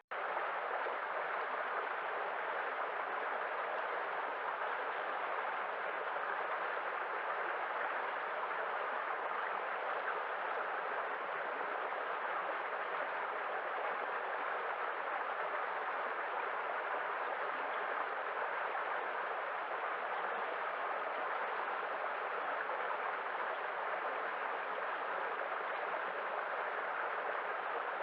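Waves as a steady, even wash of water noise, with no separate swells or breaks standing out.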